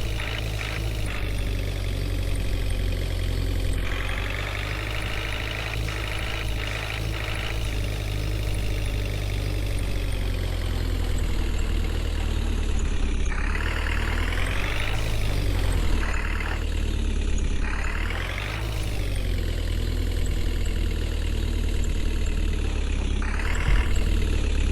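Diesel engine of a JCB 3DX backhoe loader running. It revs up and drops back several times in the second half as it works.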